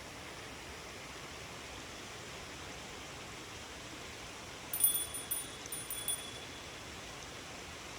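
Faint steady outdoor hiss, and about five seconds in a small metal chime rings with a few quick, high strikes for about a second and a half.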